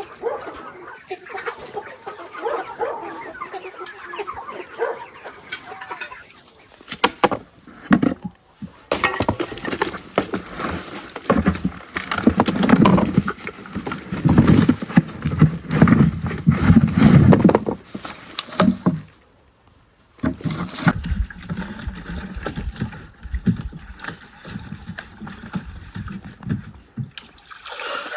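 Chickens clucking, mixed with knocks and clattering from handling.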